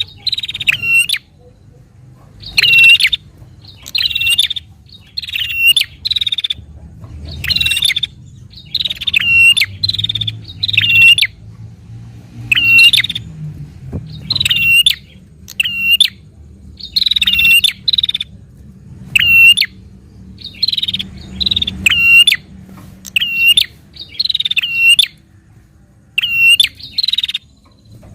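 Prinia (prenjak) calling in full voice: short, loud bursts of sharp chirps, roughly one burst a second. This is an excited bird's fighting call, the kind used to stir other prinias into calling.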